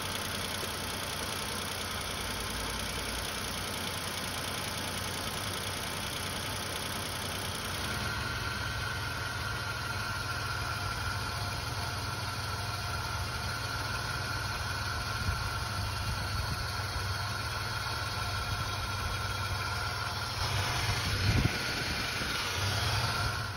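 Car engine idling with the accessory drive belt turning on a newly fitted belt pulley, running smooth. A steady hum whose tone changes about eight seconds in, growing a little louder near the end with a brief knock.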